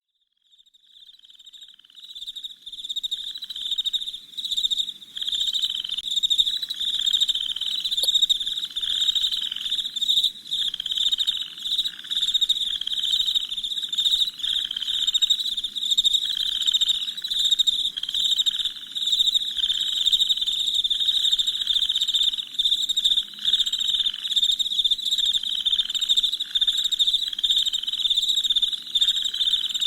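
A dense chorus of crickets chirping at night: a high, continuous trill with a pulse repeating roughly once a second. It fades in over the first couple of seconds.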